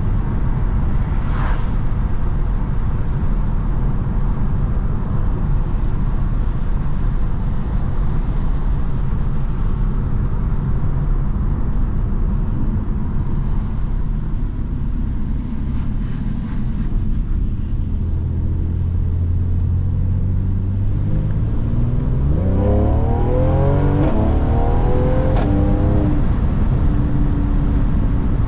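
Mercedes-AMG C43 driving: a steady engine and road rumble at a cruise, then, a little over 20 seconds in, the engine note climbs in pitch under acceleration for a few seconds before holding a steady higher drone.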